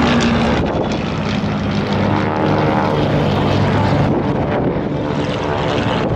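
Propeller-driven aircraft in flight, its engine running with a steady drone.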